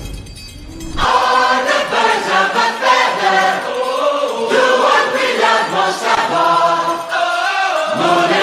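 Music with voices singing together, after a brief quieter moment at the start.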